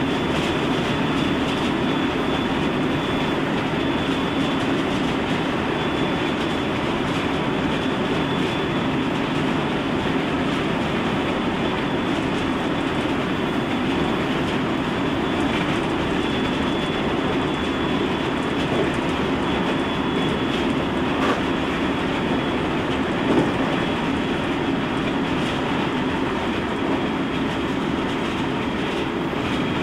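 Interior noise of a Special Rapid Service electric train running at speed: a steady rumble of wheels rolling on rail, with a faint steady high tone over it and a couple of light knocks late on.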